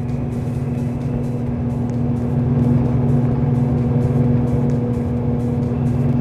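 Ventar ceiling fan running, its motor giving off a steady electrical hum with a few faint held tones above it.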